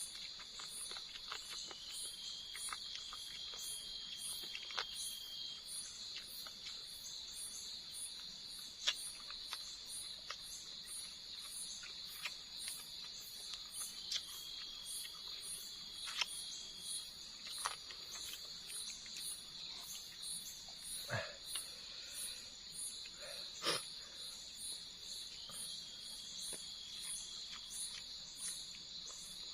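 Night-time insect chorus of crickets: a steady high buzz with a faster, evenly pulsing chirp above it, and a thinner trill that comes and goes for a few seconds at a time. A few sharp clicks and knocks sound now and then, the loudest about a third of the way in and twice near two-thirds.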